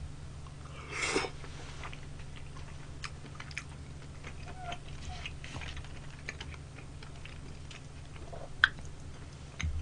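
Quiet chewing of a person eating tteokbokki (chewy rice cakes), with light clicks of chopsticks against the plastic takeout containers and a brief breathy rush about a second in.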